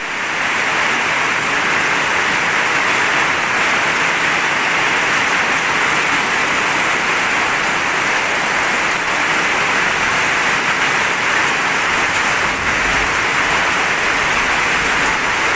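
Heavy rain pouring down steadily onto a paved yard, an even, unbroken hiss.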